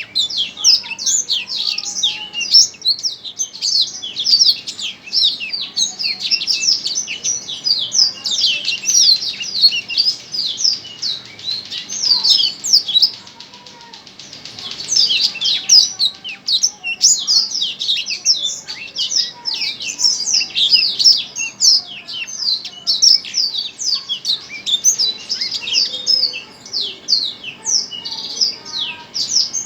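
A small songbird singing a fast, continuous chatter of high, sharp chirps, breaking off once briefly about halfway through.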